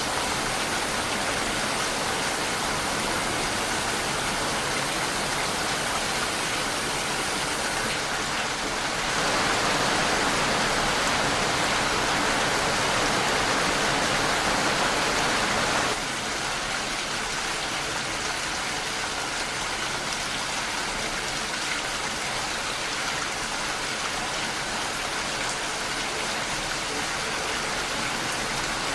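Steady, dense rainfall hissing evenly. About nine seconds in it grows louder, and at about sixteen seconds it drops back suddenly to its earlier level.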